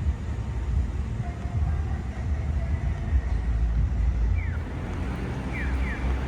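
Steady low rumble of outdoor background noise, with a few short falling chirps in the second half.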